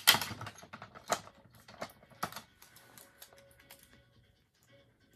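Irregular light clicks and taps of a sublimation magnet blank and its transfer being handled and set down on a table, busier in the first couple of seconds and thinning out toward the end.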